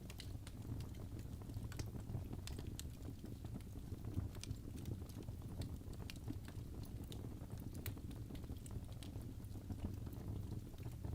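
Wood fire burning in a fireplace: irregular sharp crackles and small pops over a steady low rumble of the flames.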